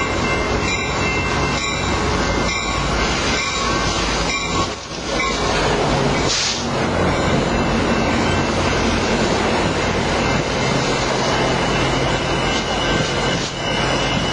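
A train running on the rails: steady loud rail noise with thin high squealing tones from the wheels, and a brief hiss about six seconds in.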